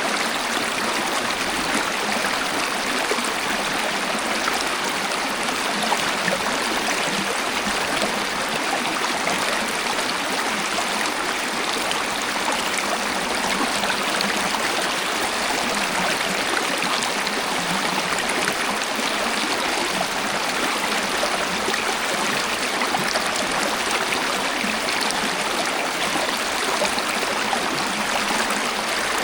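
Waterfall: a steady, even rush of falling and flowing water, unbroken throughout.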